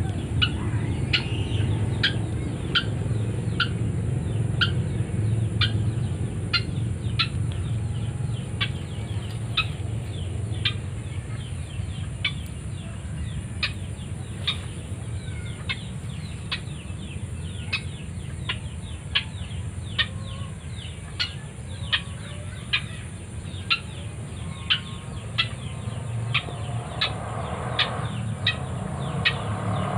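White-breasted waterhen calling at close range: a short, sharp note repeated over and over, about once or twice a second, over a low steady rumble.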